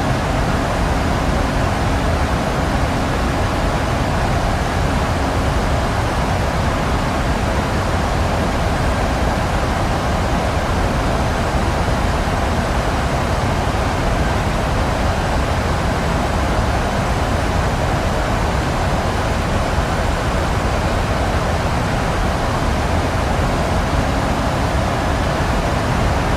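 Steady engine and airflow noise inside the cabin of a Boeing 737-800 climbing after takeoff, with a faint steady engine tone underneath.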